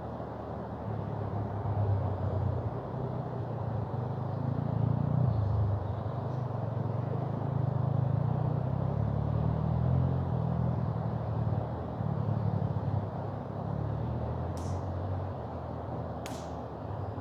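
Steady rush of a mountain river with a low, wavering rumble underneath, and two sharp pops from the bonfire near the end.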